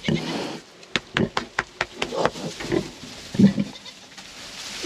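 Sow grunting in short, low grunts among her newborn piglets, with a quick run of sharp clicks about a second in.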